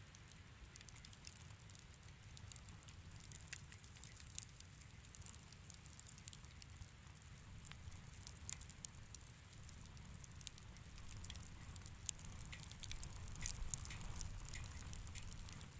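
Wood fire crackling in a fireplace: a steady scatter of small pops and snaps over a low rumble, busier near the end, with one sharper pop about twelve seconds in.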